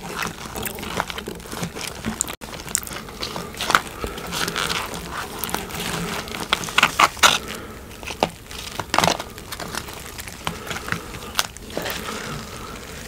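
Close-miked eating sounds of a person biting and chewing Animal Style In-N-Out food: irregular wet mouth clicks and crunches, with a few louder bites near the middle.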